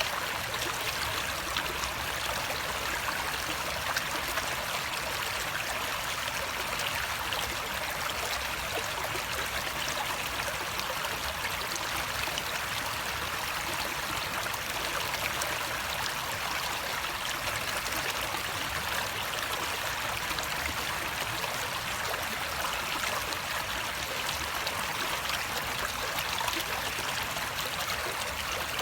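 Water in a stream or small cascade rushing and trickling steadily over rocks, an even splashing with no change in strength.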